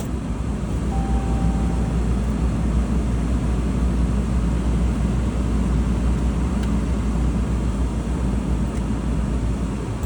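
RAM pickup's Cummins 6.7 inline-six turbo-diesel running steadily just after a cold-soaked start at about 1 °F, with no block heater, heard from inside the cab. A short beep sounds about a second in.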